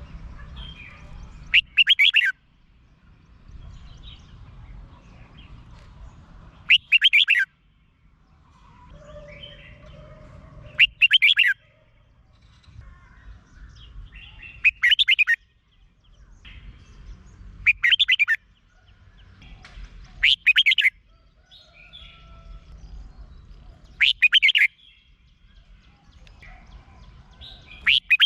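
Red-whiskered bulbul singing short, loud whistled song phrases, each about half a second long, repeated about every three to four seconds, eight times in all. Faint chirps can be heard between the phrases.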